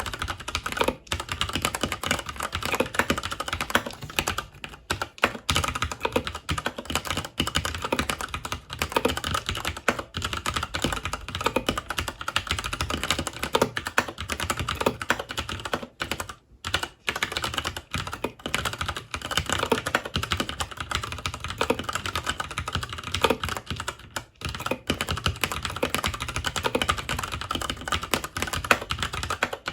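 Fast continuous typing on a FILCO Majestouch 2 Hakua tenkeyless mechanical keyboard with Cherry MX Brown switches, a dense run of key clicks and clacks broken by a few brief pauses.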